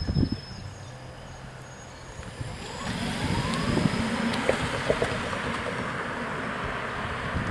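The last wheel clatter of a passing MW41 diesel railcar dies away right at the start, followed by a quieter spell. About two and a half seconds in, a steady road-vehicle rush builds with a short rising whine and holds to the end.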